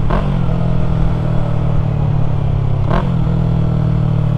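2020 Yamaha MT-03's parallel-twin engine through an aftermarket full-system exhaust, running steadily under way. Its pitch briefly dips and recovers twice, near the start and about three seconds in.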